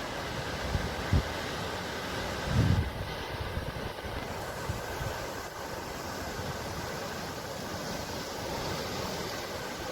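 Sea waves washing steadily, with a few short low thuds, the strongest about two and a half seconds in.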